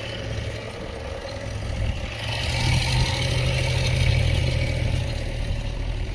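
Heavy diesel engine running under load, revving up about two seconds in and easing back after about five seconds.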